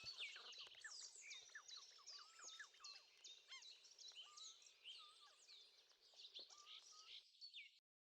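Faint chorus of many small songbirds, dense overlapping chirps and whistles, fading and then cutting off suddenly near the end.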